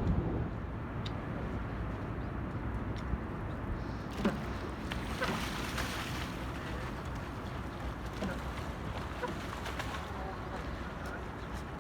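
Outdoor city ambience on foot: a steady low rumble with a hiss that swells for a few seconds midway, and a few faint bird chirps.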